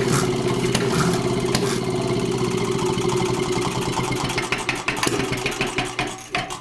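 Engine running steadily with scattered clicks, turning choppy and fading near the end.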